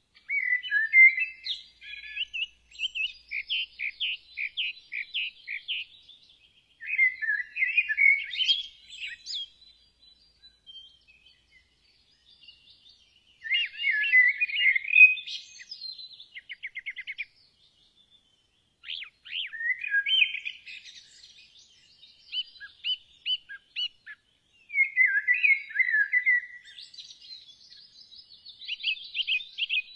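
Songbirds singing: varied phrases of chirps, trills and quick warbles, a few seconds each with short pauses between.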